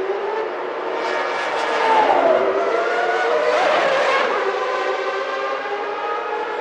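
Formula One race cars' high-revving engines at speed, several running together. One car passes close about two seconds in, the loudest moment, its engine pitch gliding as it goes by, then the sound eases off.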